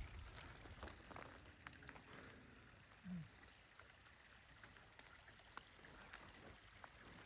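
Near silence: faint background ambience with scattered soft ticks and one brief low sound about three seconds in.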